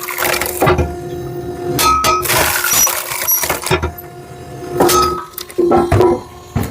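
Hydraulic log splitter at work: several sharp cracks and knocks as logs split and the pieces fall and clatter, over an intermittent steady hum from the machine.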